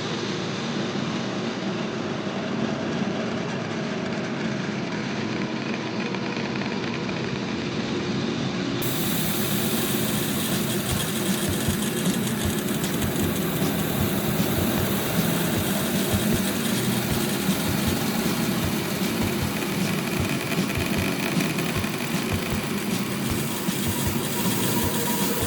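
Engine of farm machinery running steadily; about nine seconds in the sound turns brighter and fuller.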